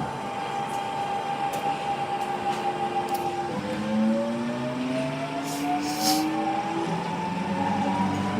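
Nankai 1000-series train's Hitachi GTO-VVVF inverter and traction motors accelerating, heard from inside the car. A steady whine gives way about three and a half seconds in to a set of rising tones as the inverter changes its switching pattern, and the tones shift again near the end as speed builds.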